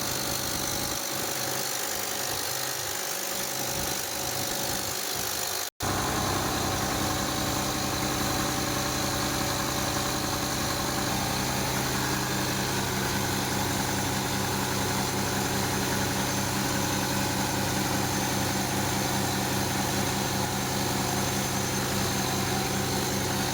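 Mercedes-Benz OM 906 inline-six diesel engine idling steadily with an even low throb, running after a full overhaul. A brief cut about six seconds in is followed by the engine sounding louder and deeper.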